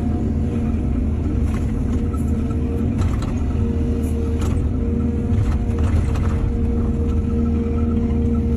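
Heavy diesel engine of an excavator running steadily, with several brief knocks and scrapes over it in the middle.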